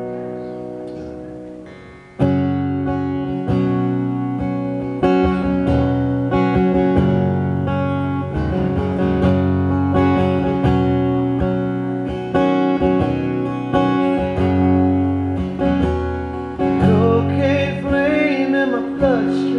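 Acoustic guitar strummed as a song's intro. A held chord rings and fades, then steady strumming starts about two seconds in. A man's singing voice comes in near the end.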